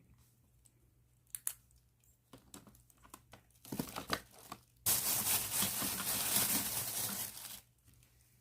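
A plastic bag crinkling as it is handled: a sharp crackle, then scattered crinkles, then about three seconds of continuous loud crinkling in the second half.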